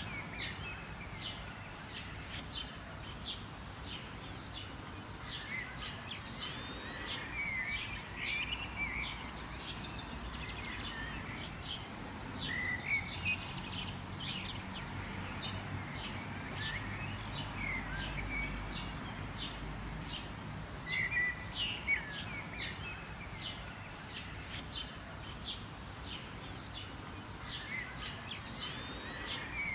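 Several birds calling and chirping continuously, with rapid short chirps and quick rising and falling whistles over a steady low background rumble.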